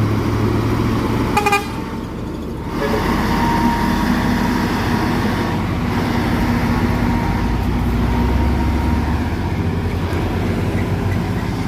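Heavy truck engines running under load on a steep climb, with one short horn toot about a second and a half in.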